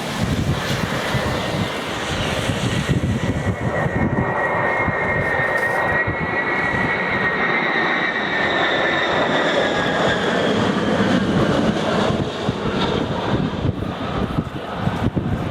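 Tupolev Tu-154M's three rear-mounted turbofans on final approach: a loud, steady rumble with a high engine whine that slides slowly down in pitch as the airliner passes.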